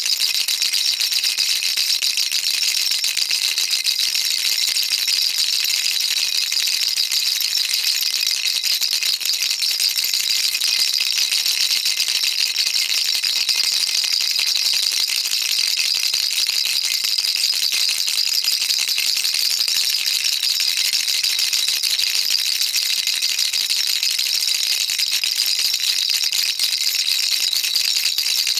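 Baby rattle shaken continuously, a dense, even, high-pitched rattle of small beads without pauses.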